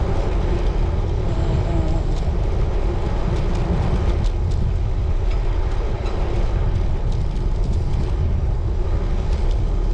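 Wind rushing over the microphone while riding a road bike at an easy pace: a steady low rumble with a few faint ticks.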